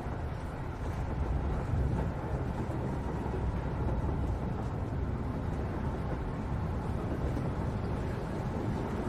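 Steady low rumble of a moving vehicle heard from inside the passenger cabin.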